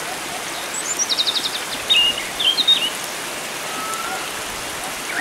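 Several wild songbirds calling over a steady rush of flowing water. A quick run of high notes drops into a fast trill about a second in, followed by louder sharp chirps, then a soft whistle near the end. A faint low note repeats a few times a second underneath.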